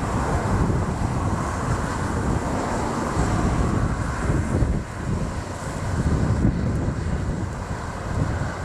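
Wind buffeting the microphone: a steady, gusting low rumble with no pitched engine tone.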